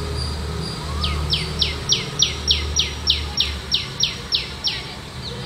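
A bird calling a run of about a dozen loud whistled notes, each sliding sharply down in pitch, about three a second, starting about a second in and stopping near the end, over a steady low rumble.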